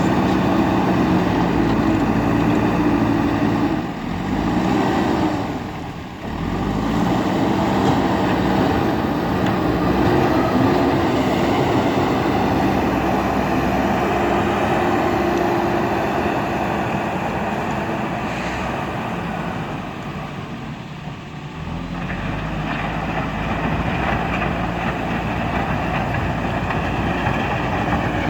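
JCB backhoe loader's diesel engine running under load, its pitch rising and falling as the throttle changes. It eases off briefly twice near the start and once about two-thirds of the way through.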